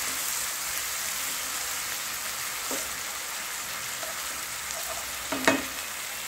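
Fenugreek leaves and spices sizzling in hot oil and a little added water in a nonstick pan, the sizzle easing off slightly. A wooden spatula stirs, with a few knocks against the pan, the loudest about five and a half seconds in.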